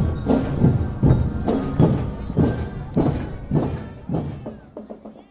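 Marching drum band playing a steady beat, heavy drum strikes about twice a second, fading out over the last two seconds.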